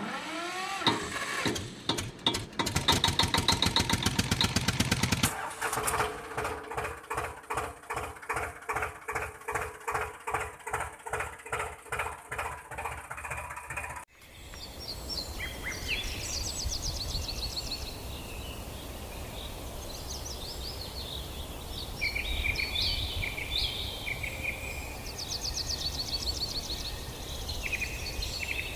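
A loud produced intro sound, pulsing about one and a half times a second, cuts off abruptly about halfway through. Outdoor ambience follows, with a steady background hiss and small birds chirping repeatedly.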